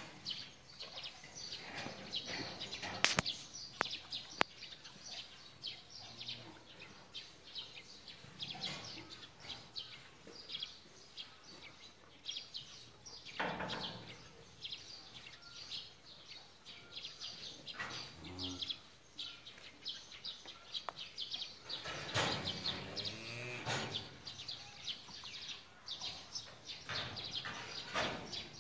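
Small birds chirping busily and without a break. A sharp click about three seconds in, and a louder sound with a wavering pitch about three-quarters of the way through.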